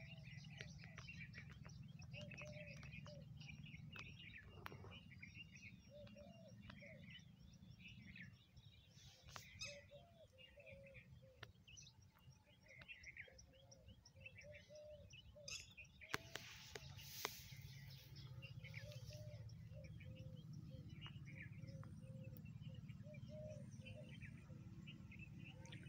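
Faint birdsong: several small birds chirping and a lower call repeating over and over, above a low steady hum. A short hissing noise breaks in a little past the middle.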